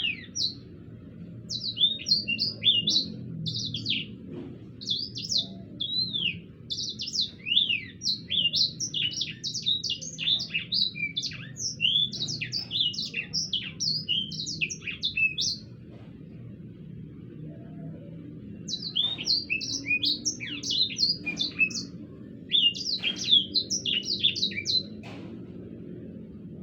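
A sanger songbird singing a fast, continuous rolling song of quick chirps and short downward-slurred whistles, in long runs that break off briefly twice, once about two-thirds of the way through and again shortly after, over a steady low background hum.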